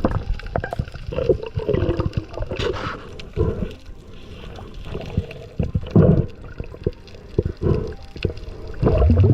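Water gurgling and sloshing around the microphone during a reef dive, coming in irregular bursts every second or two.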